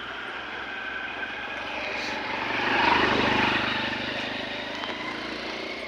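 A motor vehicle passing by: its engine noise swells to a peak about three seconds in, then fades away.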